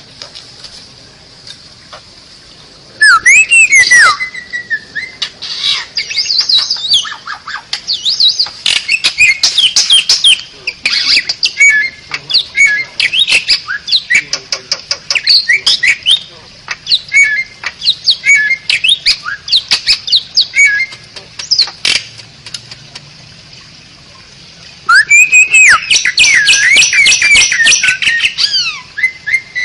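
Asian pied starling (jalak suren) singing loudly: a fast, varied run of whistles gliding up and down, mixed with harsh clicking and chattering notes. It sings in two long bouts, the first starting about three seconds in and the second about twenty-five seconds in, after a short pause.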